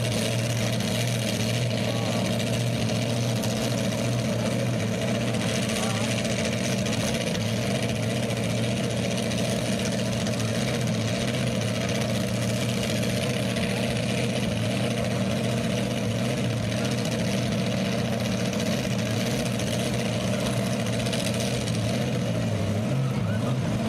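Super modified four-wheel-drive pulling truck's engine idling steadily at an even pitch.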